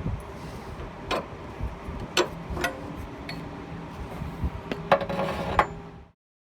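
Sharp metallic clinks and knocks of hand tools against metal: a few spread-out single strikes, then a quick cluster near the end, before the sound cuts off abruptly.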